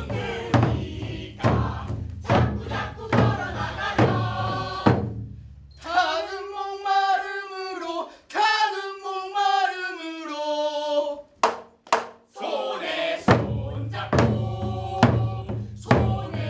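Live percussion beating a steady rhythm of about two strikes a second. Midway the drumming stops and a voice sings long, wavering held notes. Then the drumming comes back.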